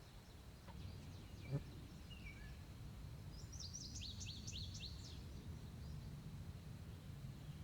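A small songbird sings a quick run of high, falling chirps about three and a half seconds in, with a few fainter calls around it, over a low steady rumble. A single sharp click comes about a second and a half in.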